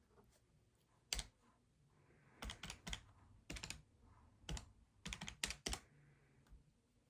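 Keys being pressed by hand: about a dozen sharp clicks in short, irregular runs, the first about a second in and the last near six seconds.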